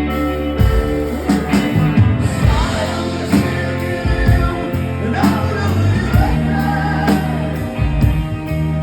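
Live rock band playing a passage between sung lines, with drums, bass and guitar, and some wordless melodic lines over the top.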